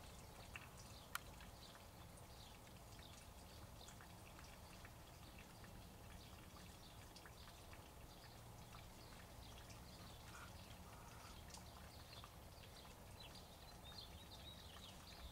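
Faint rain falling, heard as a soft steady hiss with many small scattered drip-like ticks, and one sharp click about a second in.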